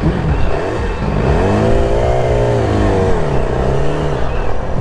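Motorcycle engine running with a steady low rumble, revved up and back down about a second in, then given a smaller second blip.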